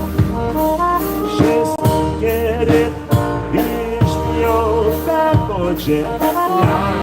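Live polka band playing an old Polish waltz, with melody instruments over a steady bass and a cymbal marking the beat.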